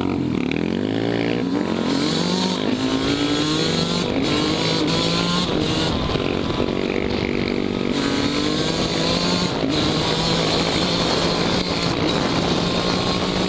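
Yamaha YZ125 two-stroke dirt bike engine under way, its pitch climbing as the throttle opens and then shifting in steps as the gears change.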